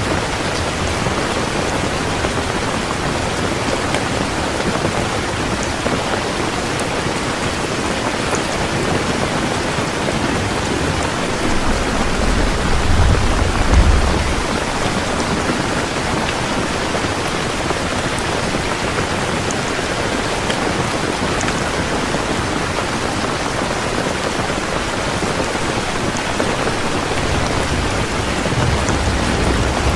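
Heavy rain pouring steadily, with a roll of thunder rumbling low about halfway through and a fainter rumble near the end.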